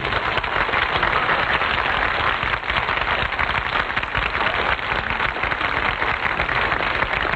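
Audience applauding steadily after a musical number, a dense patter of many hands clapping.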